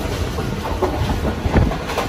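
Passenger train running on the track: a steady rumble with wheels clattering over the rail joints.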